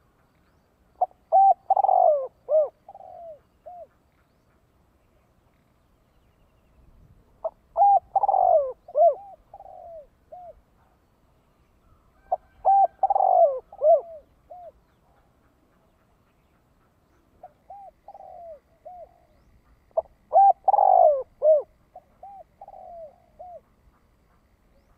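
Spotted dove cooing its calling song: four phrases a few seconds apart, each a run of several short falling coos.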